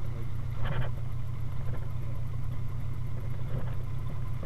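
The four-cylinder Model A 'banger' engine of a 1931 Ford Speedster hot rod, running steadily at low speed as the car rolls along, a low drone with a fast even pulse.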